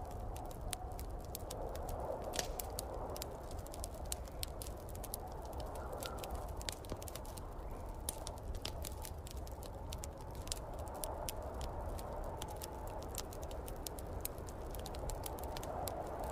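Fireplace fire crackling with many quick sharp pops, over a low steady rumble and snowstorm wind that swells and fades every few seconds.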